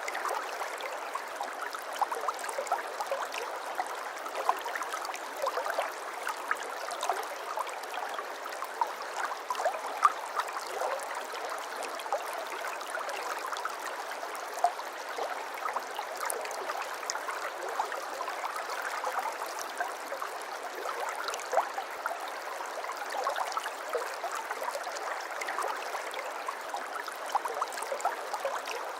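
Water flowing and trickling over stones in a small stream, a steady babbling with many small splashes.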